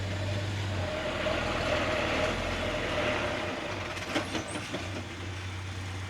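Diesel engine of heavy earth-moving machinery running steadily, easing off after about three and a half seconds. A few sharp metallic clanks follow about four seconds in.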